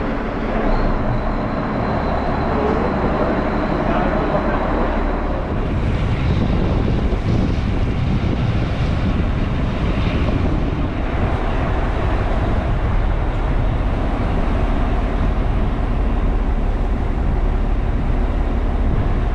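Motorboat running underway: a steady engine drone mixed with the rush of wind and water, its low end growing fuller about five seconds in.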